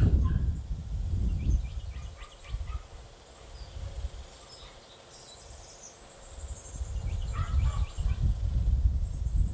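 Wind buffeting the microphone in gusts, a low rumble that swells and fades, with small birds chirping in short high notes and a brief high trill about five seconds in.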